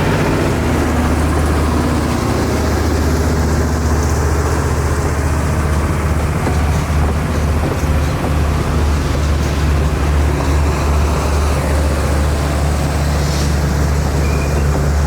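Diesel locomotive engine running with a steady, loud low drone.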